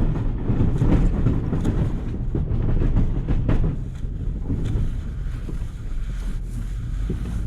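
Vehicle engine running under load while a snow plow blade scrapes and rattles over a gravel driveway, the plow shoes riding about 1.5 inches high. The scraping and knocking are heavy at first and ease off after about four seconds, leaving the steady engine hum.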